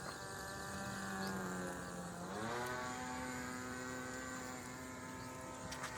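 Small two-stroke glow engine (an O.S. .20) on a model airplane, running in flight with a steady buzzing note. About two seconds in, its pitch rises over half a second and then holds at the higher note.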